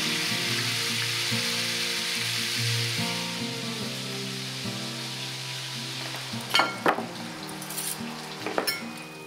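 Food sizzling as it fries in hot oil, the sizzle gradually dying down. Soft background music plays underneath, and a few light clinks of utensils come near the end.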